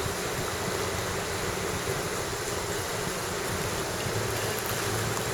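Steady rush of water at a waterfall crossing with a small engine running underneath, its low hum a little stronger about four seconds in.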